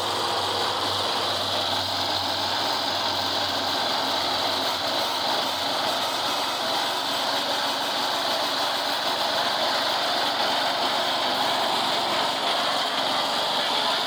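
Engine of road-construction machinery running steadily, with a constant high hiss over it.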